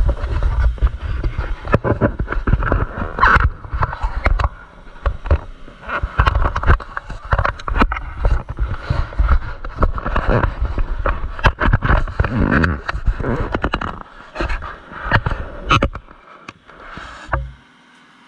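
Stick welding arc crackling and sputtering irregularly while a bead is laid on steel plate, with a low rumble underneath; the arc breaks off near the end, leaving a faint steady hum.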